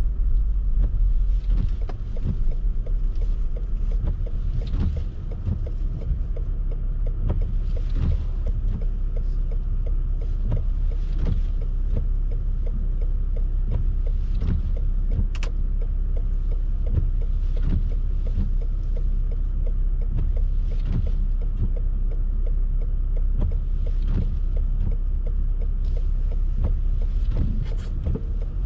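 Car driving in snow: a steady low rumble from the road and engine, with faint short knocks or sweeps recurring about every second or so.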